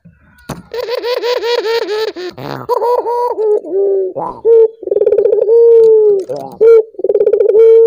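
Male ringneck dove (burung puter) calling vigorously. It opens with a quick run of short, raspy notes, about seven a second, then gives long rolling coos in bouts.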